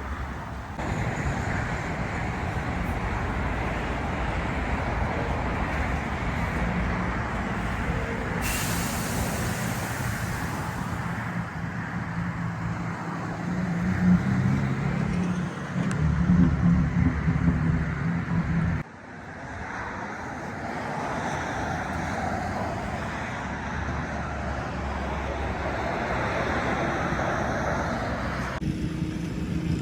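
Heavy truck diesel engines running, with a loud high hiss lasting a couple of seconds about eight seconds in. The engine gets louder and rougher around the middle, then the sound cuts off abruptly.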